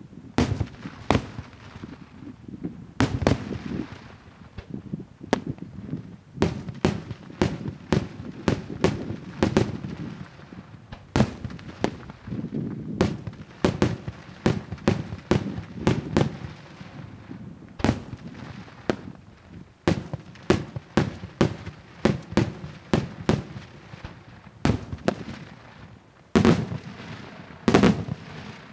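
Daytime aerial fireworks shells bursting overhead in a long, irregular series of loud bangs, some in quick runs, with a low rolling rumble between them.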